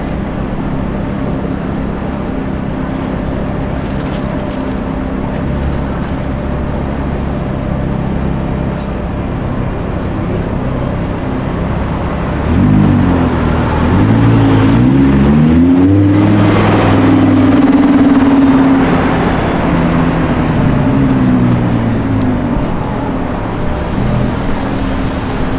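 A car engine running with a steady low drone. About halfway through it revs, its pitch climbing and falling in several sweeps as it pulls away, loudest for a few seconds, then it settles back to a steady drone.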